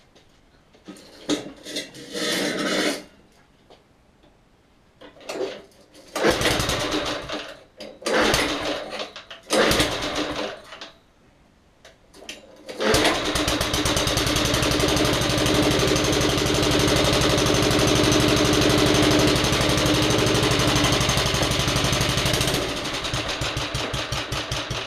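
Suffolk Punch 43S lawnmower's petrol engine being pull-started: several short pulls on the starter cord, then it catches about 13 seconds in and runs steadily for about ten seconds, running a little quieter for the last two seconds before it stops.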